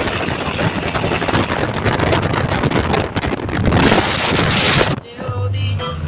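A motor vehicle running flat out, its engine buried in heavy wind rushing over the microphone. The rush cuts off suddenly about five seconds in, and music is heard after it.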